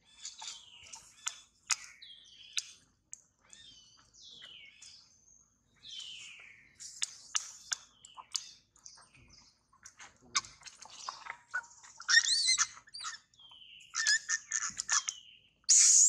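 Birds chirping and calling, with many short high chirps and sweeping whistled notes and a few sharp clicks. Near the end a macaque breaks into a loud, sustained scream.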